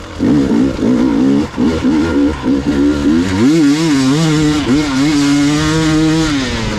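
Gas Gas EX 300 two-stroke enduro motorcycle engine under a rider's throttle, blipped on and off in quick bursts, then held open for about three seconds with the pitch wavering, before it drops off near the end.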